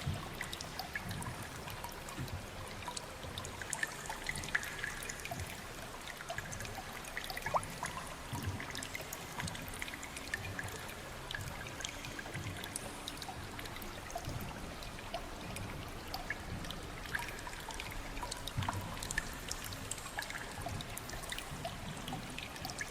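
Water trickling and dripping: a steady watery hiss with many small drips scattered through it.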